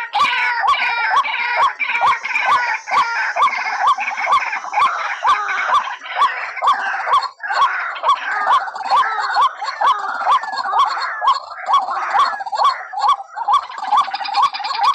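White-breasted waterhen calling: a fast, unbroken series of repeated hooked notes, about two to three a second, with more waterhen calls overlapping them.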